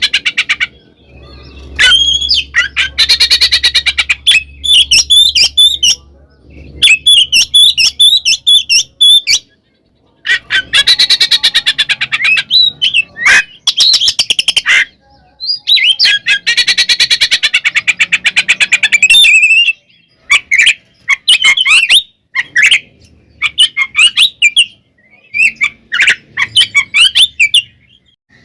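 Oriental magpie-robin singing loudly in its agitated fighting song: bursts of fast rattling chatter one to three seconds long, alternating with short whistled notes and brief pauses.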